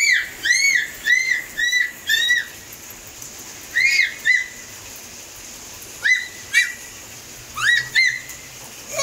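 A bird calling with short, clear whistled chirps that rise and fall: a quick run of about seven, then three pairs spaced a couple of seconds apart.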